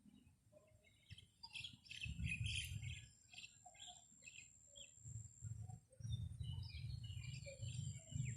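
Small birds chirping in short clusters of high notes, with wind buffeting the microphone in low gusts.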